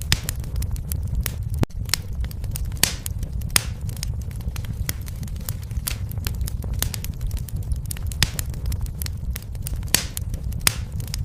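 Wood fire in a fireplace crackling: irregular sharp pops and snaps, several a second, some louder than others, over a steady low rumble of the burning flames.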